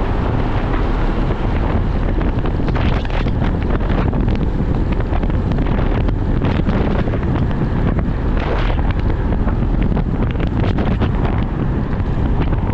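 Wind rushing and buffeting over the microphone of a moving motorcycle, with the bike's engine and road noise underneath.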